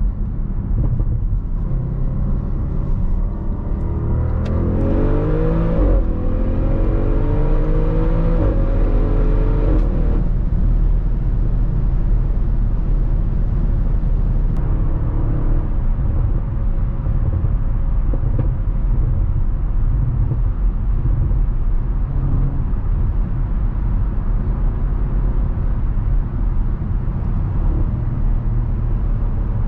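Audi RS6 Avant's twin-turbo 4.0 V8 pulling hard from about four seconds in, its pitch rising, dropping at an upshift and rising again, then easing off about ten seconds in to a steady cruise with a low drone and rumble.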